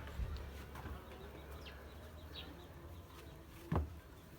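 Quiet background with a steady low hum, a few faint high chirps, and a single dull thump near the end.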